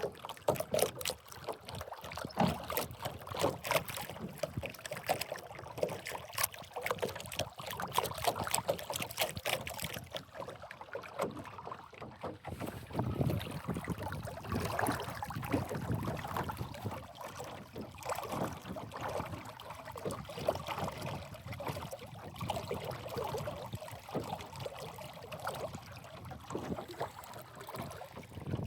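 Water lapping and splashing against the hull of a small sailboat under way, in quick irregular slaps.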